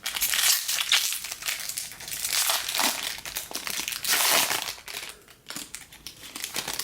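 Foil wrapper of a trading-card pack crinkling as it is torn open and handled, loudest in the first four seconds and tapering off near the end.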